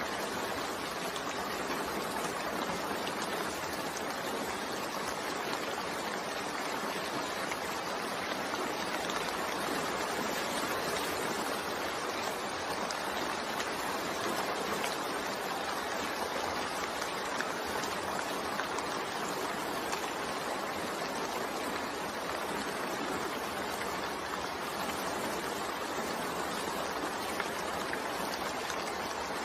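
Steady rainfall, an even hiss of rain falling with no distinct drops or breaks.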